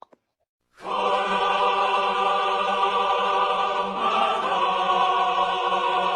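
Choir singing one long, steady chord that starts about a second in.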